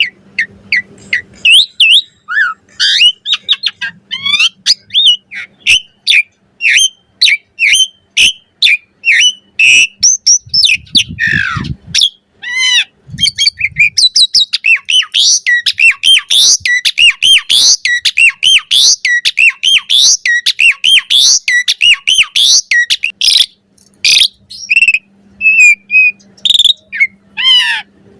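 Asian pied starling (jalak suren) singing its varied chattering song: a rapid string of chirps, whistles and clicks. A long falling whistle comes about eleven seconds in, and the phrases are most crowded in the second half.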